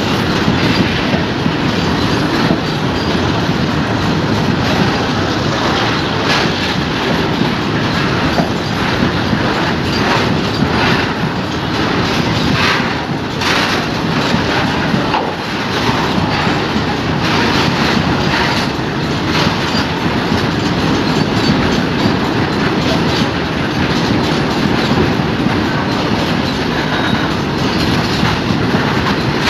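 Loaded BTPN oil tank wagons of a long freight train rolling past, a steady loud rumble of steel wheels on rail with clickety-clack over the rail joints, the clacks sharpest around the middle.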